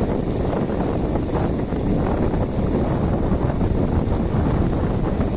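Wind buffeting the microphone: a steady, loud rumbling noise with no pauses.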